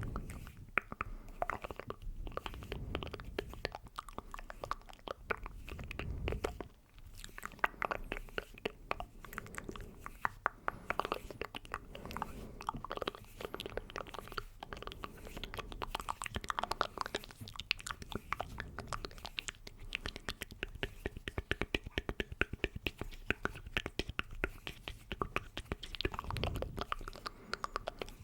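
Close-miked ASMR mouth sounds: a dense, irregular run of wet clicks and smacks from lips and tongue.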